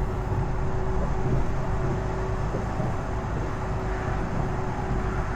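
Semi-truck engine and road noise heard from inside the cab while driving: a steady low drone.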